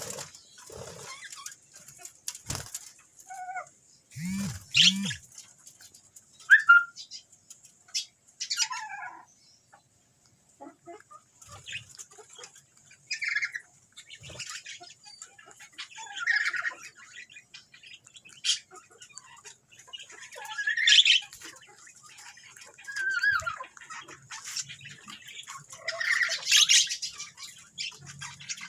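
Lovebird and budgerigar calling: short chirps and squawks every second or two, with scattered sharp clicks.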